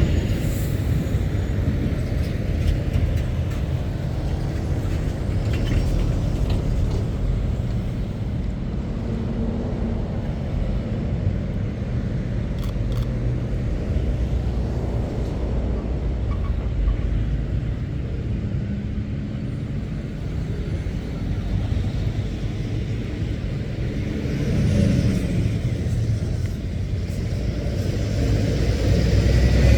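Lorries' diesel engines running as heavy goods vehicles pass, a steady low rumble whose engine notes rise and fall, swelling again near the end.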